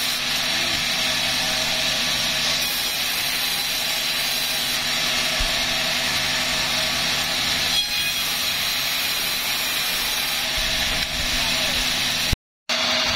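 Sawmill machinery running steadily, an even mechanical hum and hiss of the saw and its drive while cutting timber. The sound drops out completely for a moment near the end.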